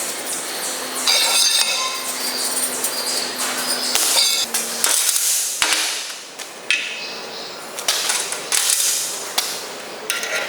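Hand tool work on metal parts: irregular knocks and scraping strokes, with a faint steady hum in the first half.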